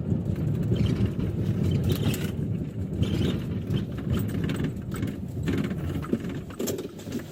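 Police vehicle in motion during a pursuit: a heavy, uneven rumble of engine and road noise with scattered knocks and rattles.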